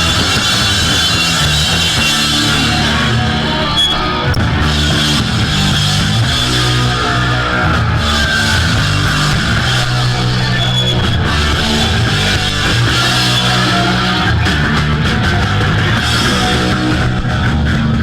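A punk band playing live at full volume, with guitar and drums and shifting bass notes, loud and unbroken.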